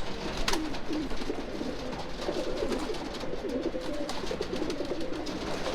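Racing pigeons cooing in the loft: several low coos overlapping, with faint clicks and taps among them.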